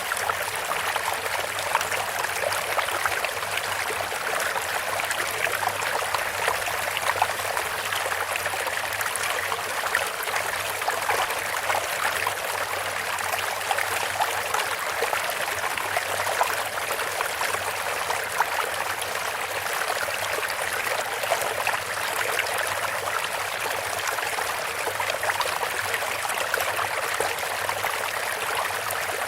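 Bamboo water fountain: water trickling and splashing steadily from the bamboo spout into the water below, an even babble with no knocks or pauses.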